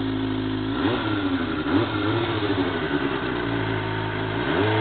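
Exhaust note of a 2005 Suzuki GSX-R 600's inline-four through a Micron aftermarket exhaust, idling and blipped by the throttle: a rev about a second in that rises and wavers before dropping back to idle, and another rising rev near the end.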